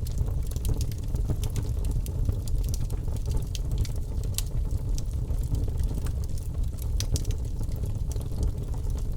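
Birchwood logs burning in a fireplace: a steady low rumble of flame with frequent sharp crackles and pops at irregular moments, two of them louder about four and seven seconds in.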